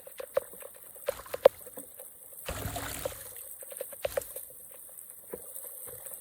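Water trickling and splashing, with scattered sharp clicks and knocks and a brief louder rush of water about two and a half seconds in.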